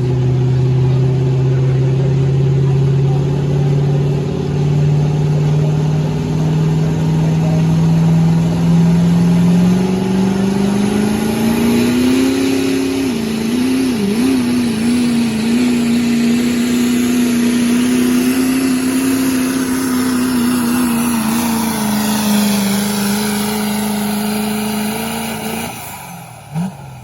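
Turbo diesel pickup truck engine running hard under load during a sled pull. Its pitch climbs steadily for about ten seconds, holds high with a brief wobble, dips slightly, then cuts off suddenly near the end.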